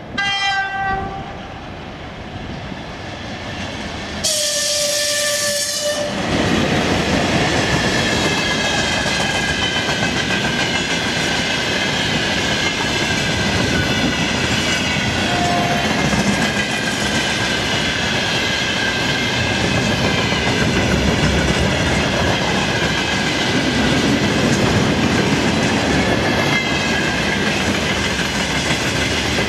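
VL80S electric locomotive sounding its horn twice, a short blast at once and a longer, louder one about four seconds in. Then its long freight train rolls past with a steady rumble and clickety-clack of wheels, with a high ringing over it.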